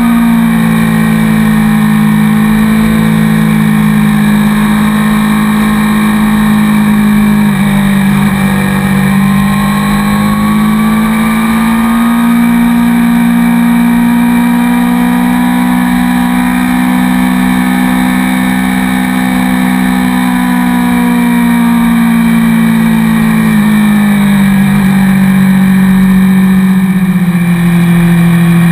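Motorcycle engine running steadily at road speed, heard close up from a camera mounted on the bike's fairing. Its pitch drops about eight seconds in, climbs back over the next few seconds, and falls again in two steps near the end.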